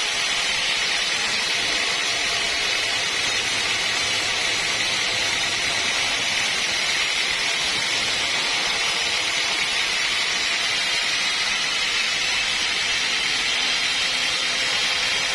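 Sawmill machinery running steadily with a loud, even, high-pitched noise that does not change.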